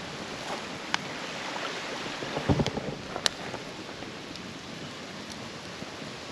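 Campfire crackling: a few sharp pops over a steady hiss, with a soft low thump about two and a half seconds in.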